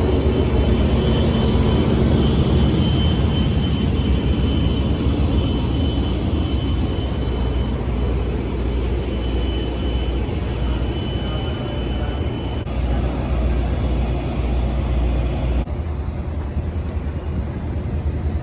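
A large vehicle running steadily with a heavy low rumble and a thin high whine that fades out about halfway through. The rumble drops a little near the end.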